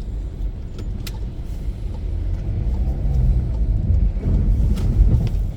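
Car driving through a snowy turn: steady low rumble of engine and tyres, growing louder about two seconds in as the car pulls through the right turn.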